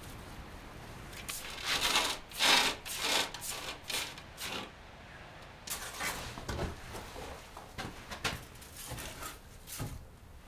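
Wood being sawn by hand: two runs of rasping strokes, about two or three a second, with a short pause between them.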